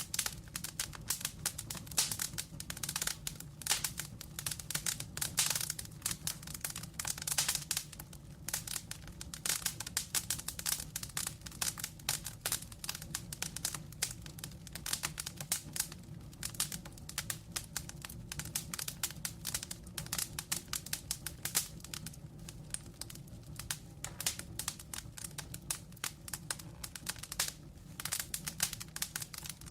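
Wood logs burning in a fireplace: dense, irregular crackling and popping over a low, steady undertone from the fire.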